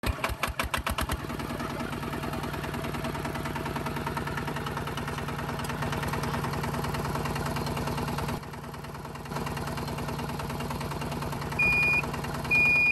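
Small motor of a DIY mini tractor starting with a quick pulsing that settles within about a second into a steady running hum, briefly dropping in level about two-thirds of the way through. Two short high beeps sound near the end.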